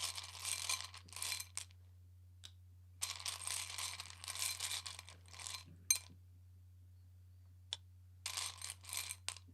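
Tarot cards being handled and shuffled: three bursts of rustling and riffling, with a couple of sharp clicks in between.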